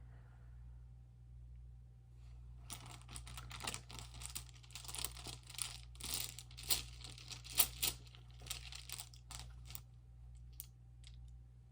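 A run of crinkling, rustling crackles close to the microphone, starting about three seconds in and lasting about seven seconds, with a few scattered ones near the end, over a low steady hum.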